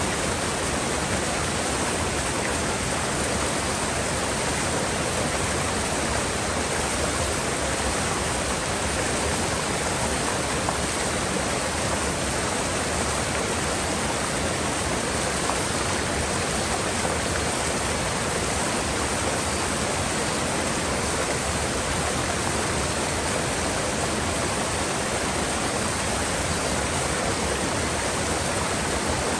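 River water in a mountain gorge rushing steadily, an even unbroken wash of water noise.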